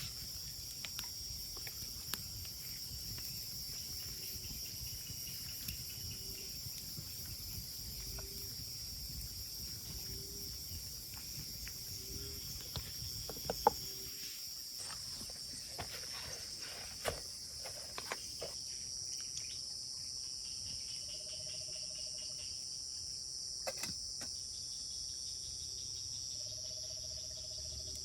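Steady high-pitched chorus of insects such as crickets. Between about 4 and 14 seconds a short low animal call repeats roughly every second and a half, and scattered clicks and knocks come and go.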